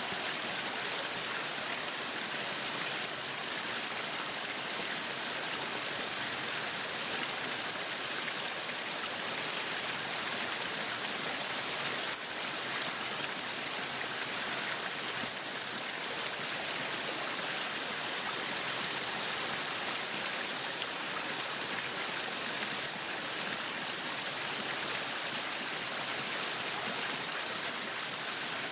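Meat sizzling on a yakiniku grill: a steady, crackling hiss that keeps an even level throughout.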